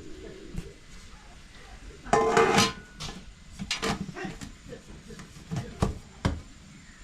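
Cooking pots and utensils being handled: a loud clatter about two seconds in, then a few sharp knocks.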